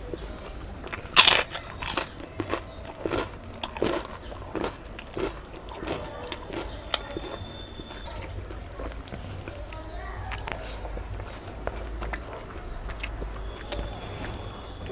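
A loud crunchy bite into fried papad about a second in, then crisp crunching and chewing for several seconds that grows sparser.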